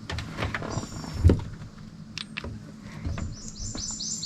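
A bird calling about three seconds in, a quick run of high, down-slurred whistled notes, several a second. Earlier there are scattered light clicks and a dull thump about a second in, the loudest sound.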